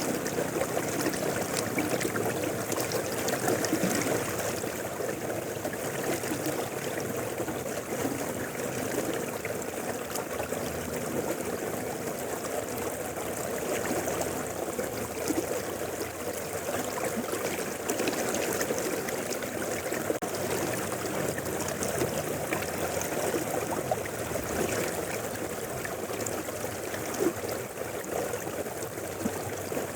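Mountain river flowing over stones, a steady rushing and babbling.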